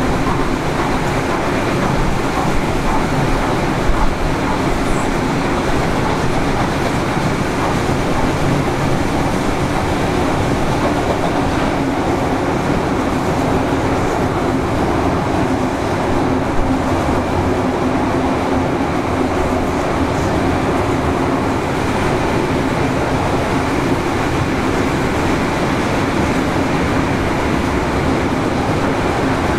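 A steam-hauled passenger train running along the line, heard from on board: a steady rumble of wheels on the rails that holds even throughout.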